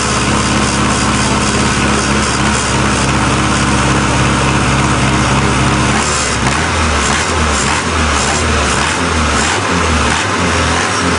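Diesel engine of a mini tractor puller running steadily. About six seconds in, its note drops and turns uneven and pulsing.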